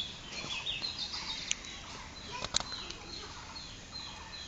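Birds chirping in the trees: many short, falling whistled notes repeating over and over, with a couple of sharp clicks in the middle.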